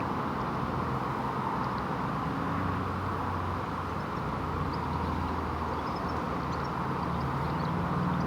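Honeybee swarm flying around in the open, a steady dense hum of tens of thousands of bees: the swarm has left the nuc and taken to the air again.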